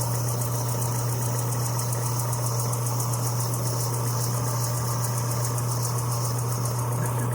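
Power sander running steadily with an even hum, sanding the handle of a ride-on train.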